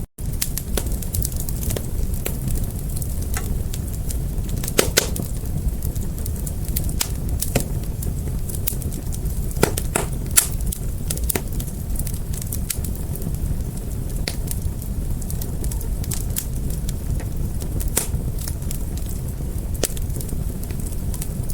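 Wood fire crackling: scattered sharp pops and snaps over a steady low rumble of the flames, with a few louder pops spread through.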